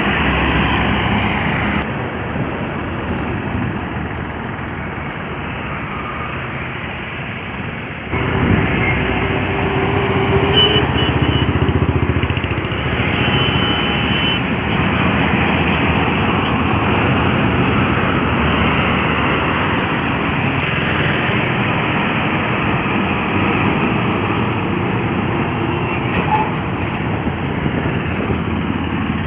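Heavy trucks running along a highway: steady engine and road noise that grows louder about eight seconds in, as a vehicle comes closer. A few short high tones sound around the middle.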